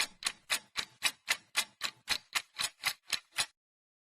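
Evenly spaced sharp ticks, about four a second, like a ticking-clock sound effect, stopping abruptly about three and a half seconds in.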